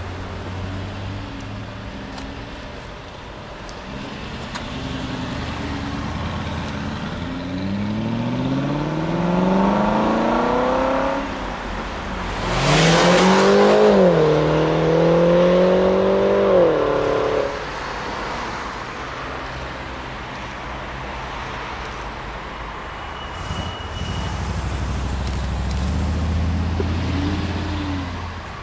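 Aston Martin V8 Vantage's 4.7-litre V8 running low, then accelerating hard twice with its note rising each time. The second run, about halfway through, is the loudest, and the engine then drops back to a low rumble with a brief rise near the end.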